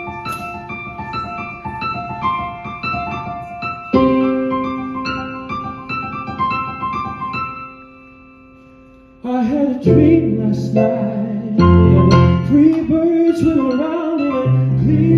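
Piano intro: a repeating broken-chord figure, then a struck chord that dies away almost to quiet. About nine seconds in, a louder, fuller accompaniment comes in with a low bass and a wavering melody line above it.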